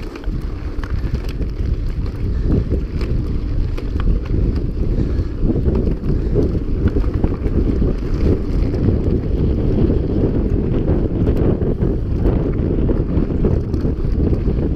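Wind buffeting the microphone of a camera carried on a mountain bike at speed, a dense low rumble with scattered small clicks and rattles.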